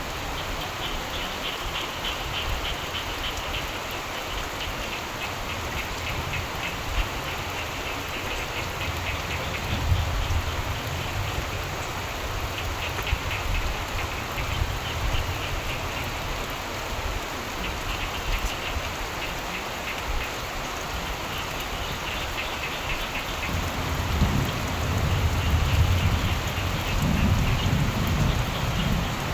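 Steady rain falling, with frogs calling in short bouts of fast, pulsing trills. A low rumble of thunder swells near the end.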